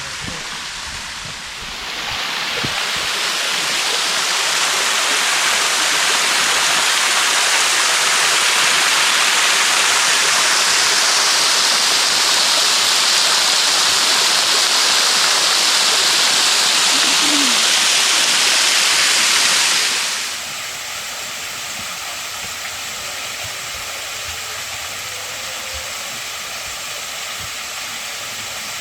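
A waterfall rushing: a loud, steady roar of falling water that swells in over the first few seconds. About twenty seconds in it cuts off sharply, leaving a quieter steady rush of water.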